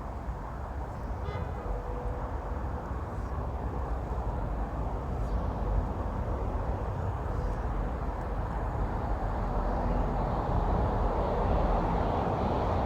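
Steady low rumble of traffic on a road bridge overhead, growing slightly louder near the end.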